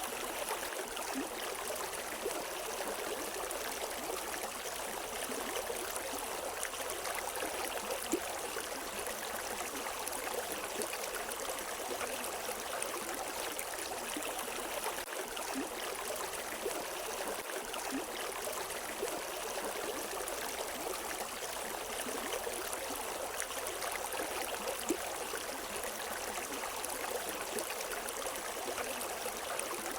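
A river flowing over rocks: a steady rush of water with small splashes and gurgles.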